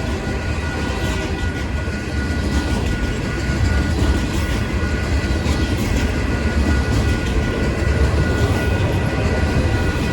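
A train running on the rails: a steady low rumble with a thin steady tone above it and light clicking of the wheels.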